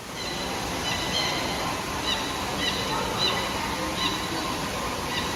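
Birds chirping in short, high calls repeated every half second to a second, over a steady rushing background noise.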